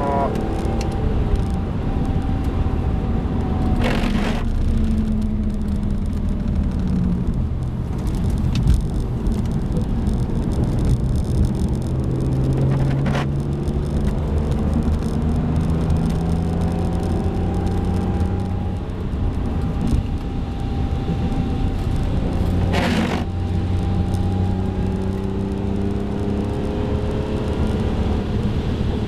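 BMW E46 M3's S54 straight-six engine heard from inside the cabin on track, its revs rising and falling through the corners and straights, over steady road and tyre noise. Two sharp knocks, one about four seconds in and another about two-thirds of the way through.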